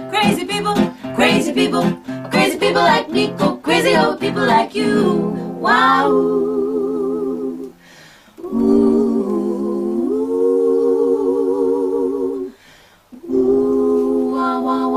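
A vocal group singing in close harmony over a quickly strummed string accompaniment, then holding the song's final chords, three long sustained notes with vibrato, each broken off by a short pause.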